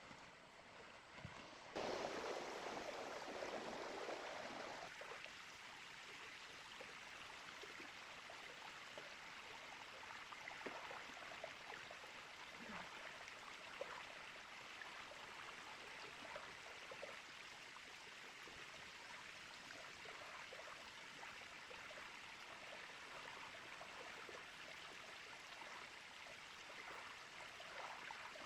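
Small river flowing steadily over stones, a soft continuous water babble. It comes in suddenly about two seconds in and is louder for the first few seconds.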